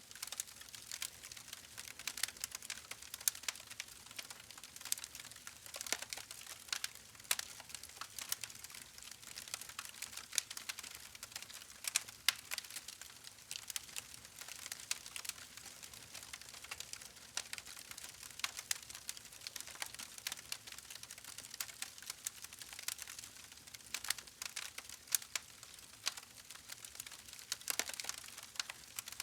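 Wood fire burning, with irregular sharp crackles and pops over a soft steady hiss.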